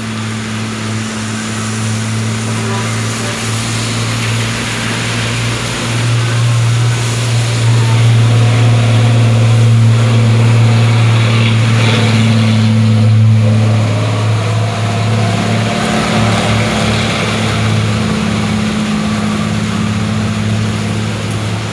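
A heavy vehicle's engine working up a grade with a steady low drone. It grows louder toward the middle and eases off again, over the hiss of heavy rain.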